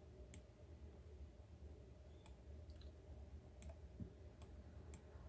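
A few faint, sharp computer mouse clicks, spaced irregularly, over a low steady room hum.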